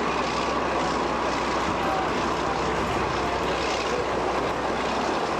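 Diesel-hydraulic locomotive engine running steadily under power, a dense even engine noise with no change in level.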